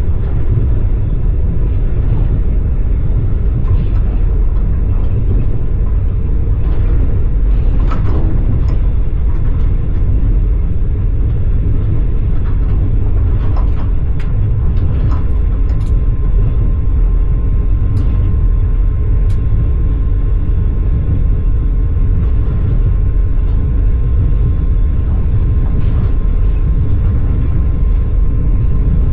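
Passenger train carriage running on rails, a steady low rumble of wheels on track with a few short sharp clicks and squeaks; a faint steady whine sets in about halfway through.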